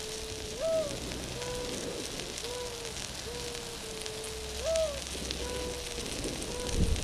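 Onions, garlic, ginger, chilies and spice mix sizzling and crackling in hot oil in a pan. Background music plays over it: a slow melody of held notes that leaps upward about every four seconds.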